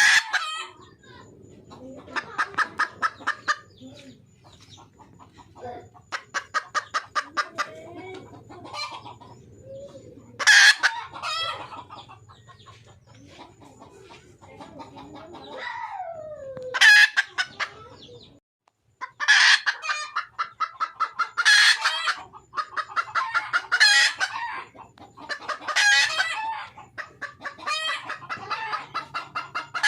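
Red junglefowl hen calling for a mate: runs of rapid, evenly spaced clucks a second or two long, broken by louder sharp calls, with one falling call about halfway through.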